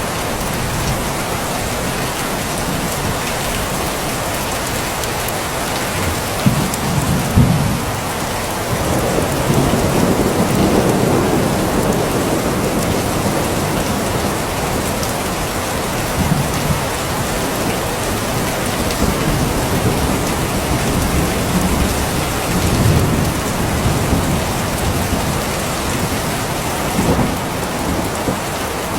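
Steady rain falling, with several low rumbles through it; the strongest come about a quarter to a third of the way in.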